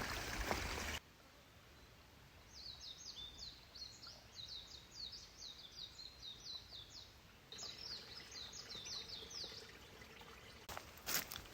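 A songbird singing two long runs of quick, high, down-slurred notes, several a second. It is framed by loud rustling noise: one burst that cuts off abruptly about a second in, and another with a few sharp clicks near the end.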